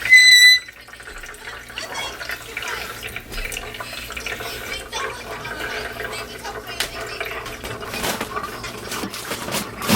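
A single half-second electronic beep, then water running and splashing with small clicks and knocks of kitchen handling.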